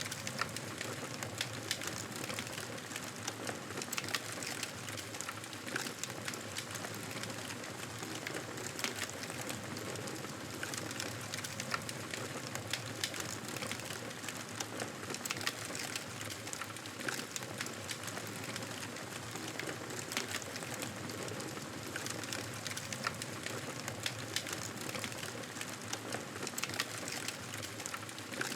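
Campfire burning with a steady hiss and frequent irregular crackles and pops of the burning wood.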